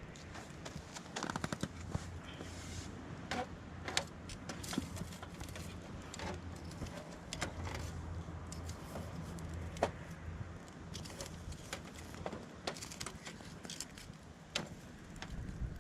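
Wood campfire crackling, with irregular sharp pops and snaps over a low rumble that fades out about two-thirds of the way through.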